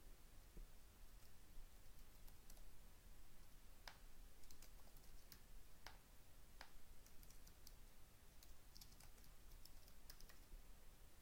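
Faint, irregular computer keyboard keystrokes and clicks: someone typing entries into a form.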